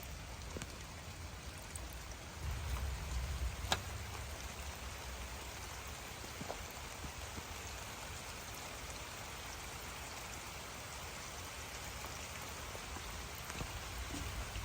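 Steady rain falling, with scattered drops ticking and one sharper tick about four seconds in.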